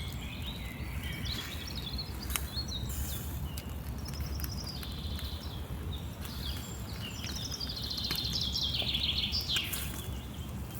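Songbirds singing outdoors: several trilled phrases, each stepping down in pitch, repeated every few seconds, over a steady low rumble.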